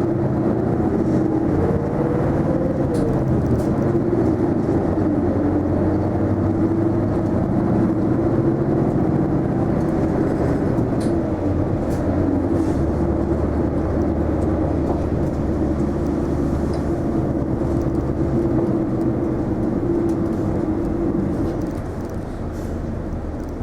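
Running sound from inside an Isuzu Erga non-step city bus on the move: a steady engine and drivetrain drone with road noise, with a brief rising whine a couple of seconds in. The drone eases off and gets quieter near the end.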